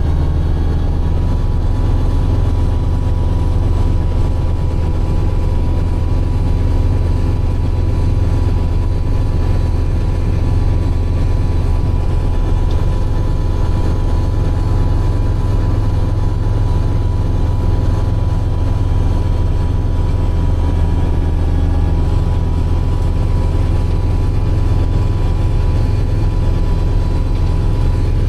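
A vehicle engine running steadily with a deep low hum and a faint steady whine above it.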